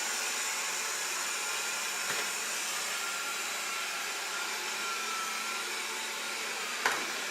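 Proscenic 820S robot vacuum running steadily: an even, high-pitched suction-fan noise with a faint whistle. A light tap sounds about two seconds in and a sharper one near the end.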